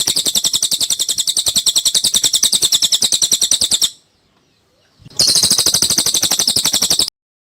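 Cililin bird song: a loud, very even rapid series of high chirps, more than ten a second. It breaks off about four seconds in, starts again about a second later, and stops shortly before the end.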